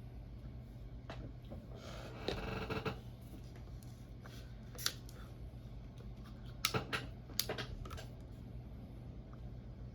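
Close-miked eating sounds at a pancake mukbang: a short stretch of chewing or scraping about two seconds in, then a few sharp clicks near five and seven seconds, over a steady low hum.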